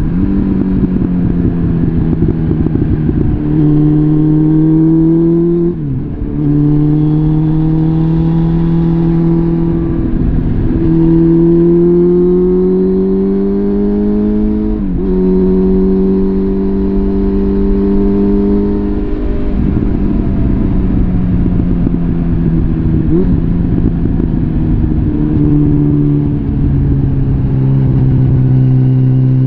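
Suzuki GSF650 Bandit's inline-four running through a full Arrow exhaust system while riding. The engine note climbs slowly under acceleration and drops sharply at each of several gear changes, about six seconds in, about fifteen seconds in and again around twenty seconds.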